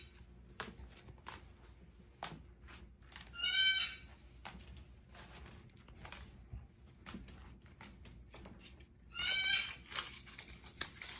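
Two drawn-out, wavering calls from a pet cockatoo, one about three and a half seconds in and one near the end, over scattered faint clicks and crackles of a cockatoo crunching dried rose leaves.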